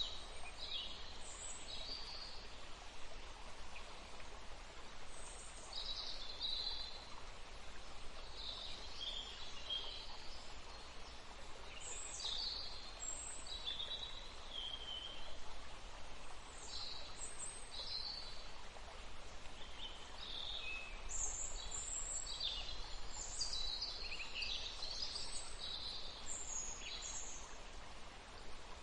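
Flowing water running steadily, with small birds chirping and calling over it, the calls coming thickest in the last third.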